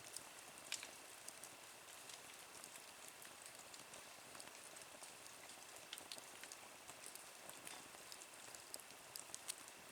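Small wood fire burning in a nature stove: a faint steady hiss with scattered sharp crackles and pops, a louder pop about a second in and another near the end.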